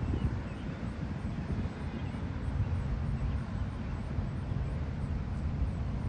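Wind buffeting the microphone: a low, fluttering rumble that holds fairly steady, with a faint hiss above it.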